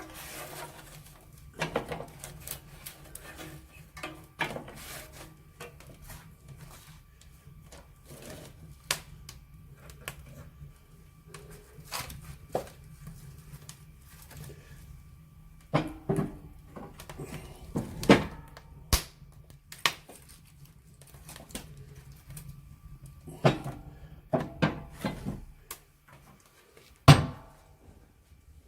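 Firewood and kindling being handled and laid in a fireplace: irregular wooden knocks and clicks, with a few heavier thunks, the loudest near the end.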